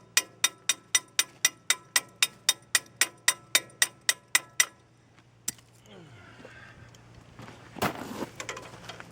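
A fast, even run of sharp metallic clicks, about four a second, each with a short ring; they stop abruptly about two-thirds of the way in. A single louder knock and then a heavier clunk follow near the end, over a low steady hum.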